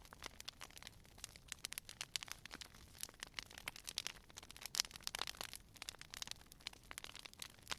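Wood fire crackling: irregular sharp pops and snaps, many each second, with a few louder pops over a soft steady hiss.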